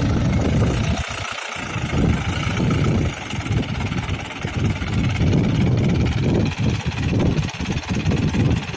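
An engine running unevenly, with a heavy, low sound and brief dips about a second in and near the end.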